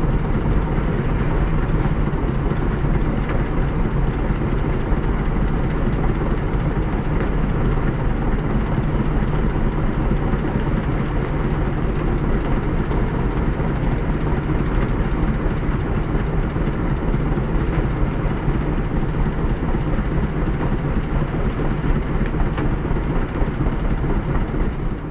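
Engine-driven rice thresher running steadily, a continuous loud mechanical drone with a heavy low rumble.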